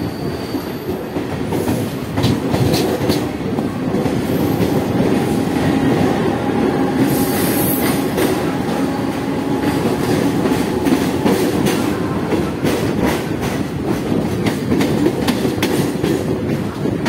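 Mumbai suburban electric local train running, heard from its open doorway: steady rumble of the coach with wheels clattering over rail joints and points, the clicks coming thicker in the second half.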